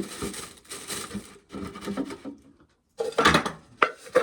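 Corn being shelled: dry kernels rattling and clattering off the cob in irregular bursts, with a brief pause and then a louder clatter about three seconds in.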